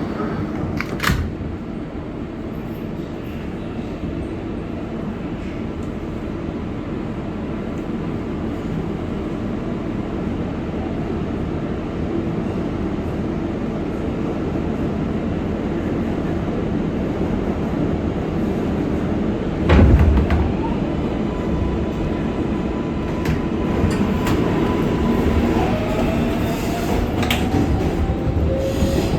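R188 subway car running on the rails, heard from inside the car: a steady rumble with rail noise, a sharp knock about a second in and a heavier thud about two-thirds of the way through. Near the end, thin whining tones from the traction motors hold steady and then rise in pitch.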